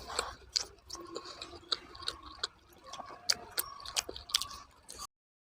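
Close-up eating sounds: chewing with irregular wet mouth clicks and lip smacks. The sound cuts off to silence near the end.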